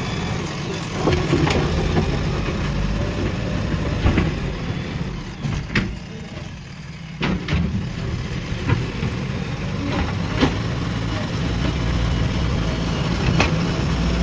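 Diesel engine of a JCB 3DX backhoe loader running steadily, with scattered sharp knocks and clanks every second or two.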